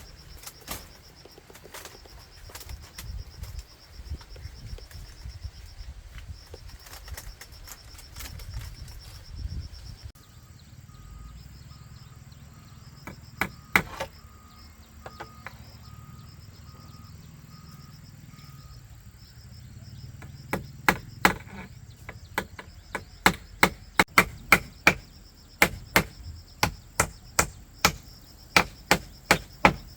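Repeated chopping strikes on wood, scattered at first, then a steady run of sharp blows at about two a second from about two-thirds of the way in. A steady high insect drone sounds over the first third.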